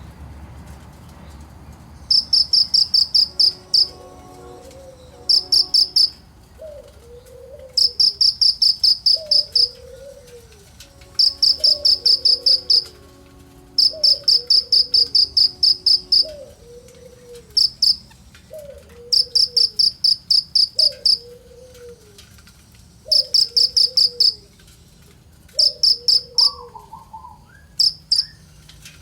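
Kinoi bird singing: loud, very rapid high-pitched chirping trills in repeated bursts, over a quieter lower falling call repeated about every second and a half.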